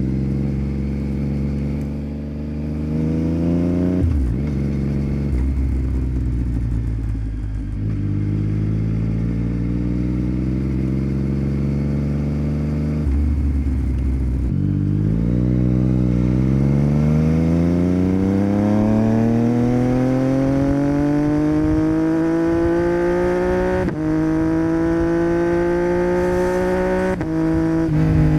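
2021 Yamaha MT-09's inline-three engine breathing through a Yoshimura R77 exhaust under way. It revs up and shifts about four seconds in, holds a steady cruise, shifts again around fifteen seconds in, then makes a long pull with the pitch climbing steadily.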